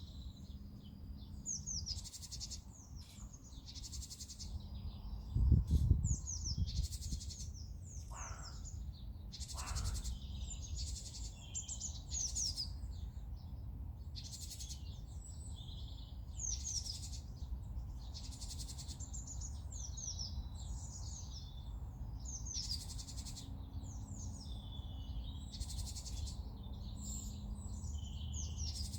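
Several songbirds singing and chirping at once, with quick high whistled phrases and repeated buzzy notes. A brief low rumble about five seconds in.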